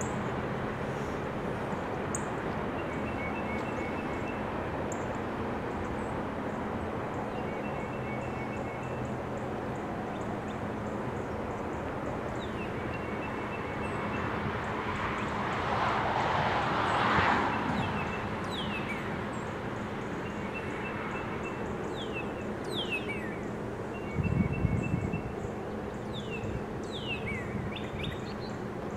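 Steady distant rumble of a freight train's cars rolling away down the track, with birds chirping over it in short repeated calls and, near the end, several quick falling whistles. A broad swell of noise rises and falls about halfway through, and there is a brief low thump near the end.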